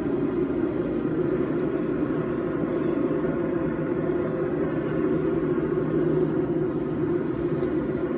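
A forge running steadily: an even, low rush with no hammer blows.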